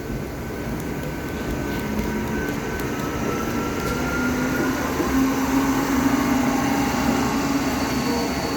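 Train moving on the track, a steady low rumble growing gradually louder, with faint held whining tones over it.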